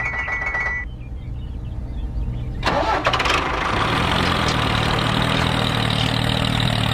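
A tractor engine starting about a third of the way in, then running steadily. Before it comes a short steady high tone in the first second.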